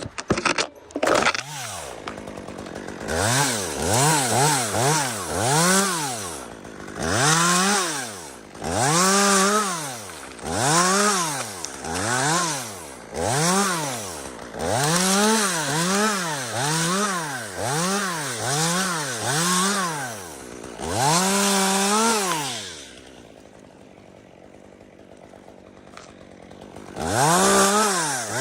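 Two-stroke chainsaw revved up and down over and over, its pitch rising and falling about once a second, in short bursts of throttle. Near the end it drops to a quiet idle for a few seconds before revving again.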